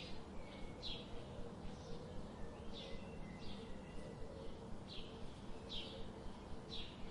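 A bird chirping over and over, with short, slightly falling calls about once or twice a second, over a faint steady hum.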